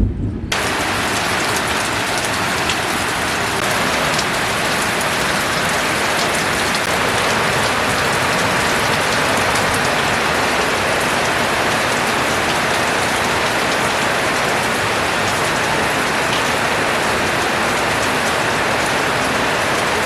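Heavy rain falling, a dense steady hiss that cuts in abruptly about half a second in.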